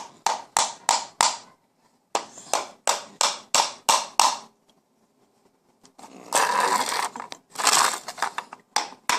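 Hammer driving nails into a wooden birdhouse: quick runs of sharp strikes, about three a second, with a ringing knock to each blow. Two longer scraping noises fall between the runs, a little past the middle.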